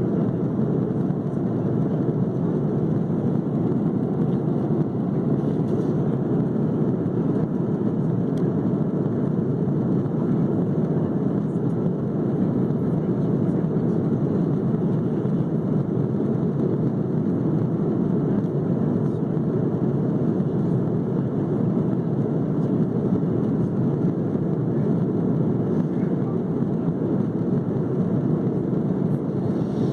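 Steady roar of an airliner at cruise heard from inside the passenger cabin: engine and airflow noise, low and even, unchanging throughout.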